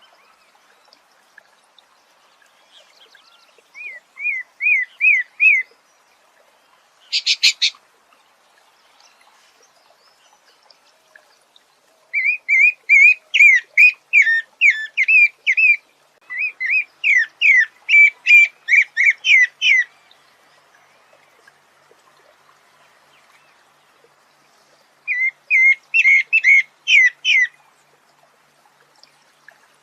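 A songbird singing phrases of quick, evenly repeated whistled notes, several to a phrase, with pauses of a few seconds between phrases.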